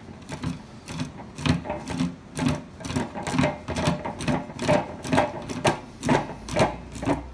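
Rhythmic mechanical strokes, about two a second, from a tool tightening the mounting hardware of a gumball machine's replacement lock.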